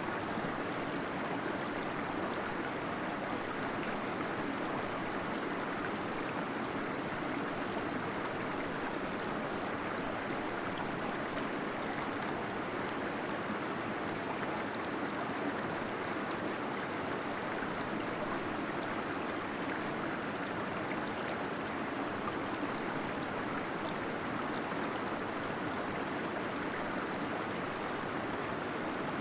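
Small waterfall splashing and gurgling steadily inside a cave, an even rush of water with no let-up.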